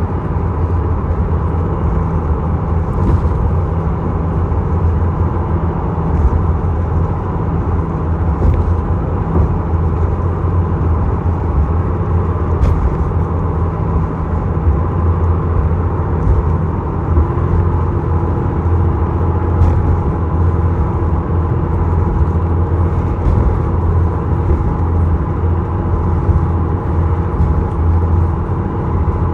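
Engine drone of the small ferry Isokaze under way, heard on board: a loud, steady low hum with a faint whine on top, and an extra tone joining about halfway through. There are occasional faint knocks.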